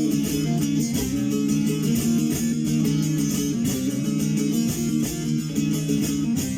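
Bağlama (saz) playing an instrumental passage of a semah between sung verses, with fast repeated plucked notes at a steady level.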